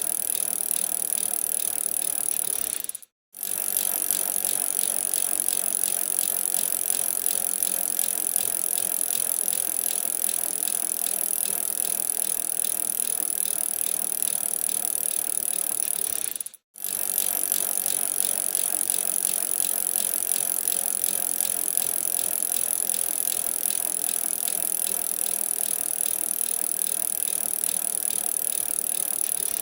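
Bicycle being ridden on a snowy winter road: steady tyre and drivetrain noise with a strong high hiss. It cuts out to silence for a moment twice, about 3 seconds and 16–17 seconds in.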